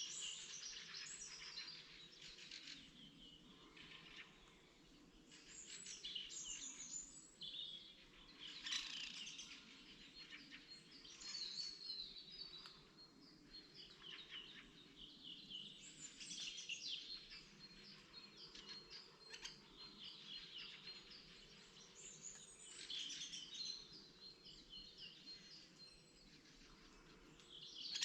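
Songbirds singing in spring, short phrases of quick high chirps and trills coming every few seconds, with a faint, even high note running through the middle stretch.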